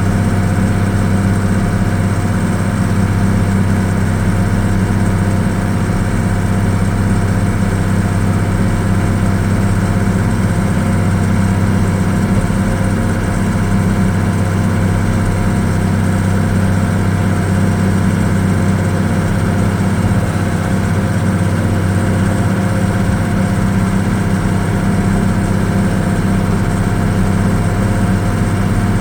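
Farm tractor engine running at a steady speed, a constant low drone with no change in pitch.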